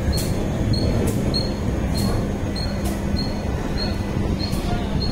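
Mumbai suburban local train running on the track: a steady low rumble with a sharp clack about once a second as the wheels pass over rail joints.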